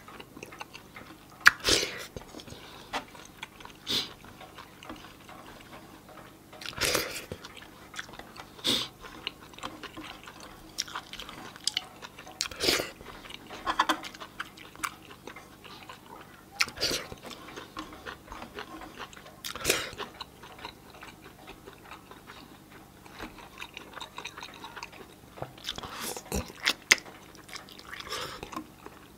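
Close-up eating sounds of a person eating rice and chicken curry by hand: chewing, with short sharp mouth and finger sounds every second or two. Near the end, a bite into a mango slice.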